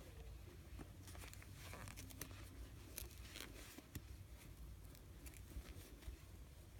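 Faint rustling and light clicks of a crochet hook drawing yarn through stitches as a crocheted toy is handled, over a low steady hum.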